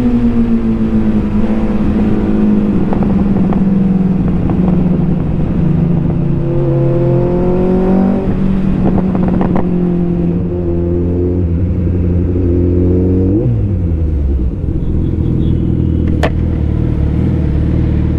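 Motorcycle engine under way, its pitch climbing and dropping several times as it accelerates and shifts gears. About 13 seconds in it winds down to a steady low idle, with one sharp click a few seconds later.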